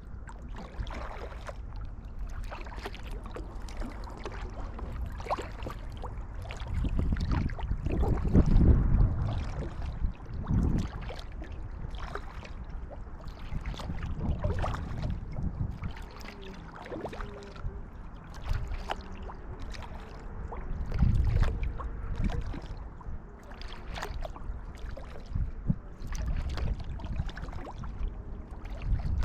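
Kayak paddle blades dipping into the water stroke after stroke, with water splashing, dripping and sloshing, and now and then a louder low surge of water.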